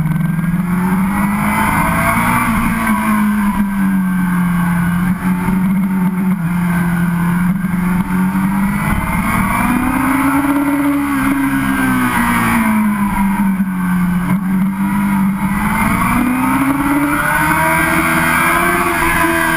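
Sportbike engine heard onboard while riding, running steadily, its pitch rising and falling smoothly several times as the throttle is rolled on and off.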